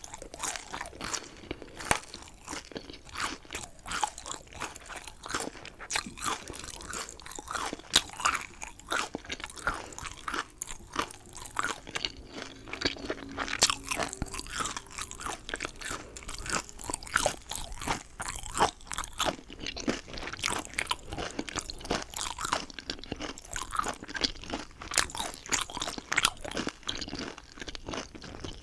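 Close-miked eating of chicken: continual crunchy bites and wet chewing, a dense run of irregular crackles and crunches.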